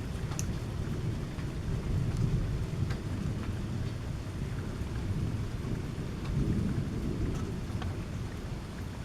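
Thunder rumbling low and continuously, swelling about two seconds in and again after six seconds, with scattered raindrops ticking.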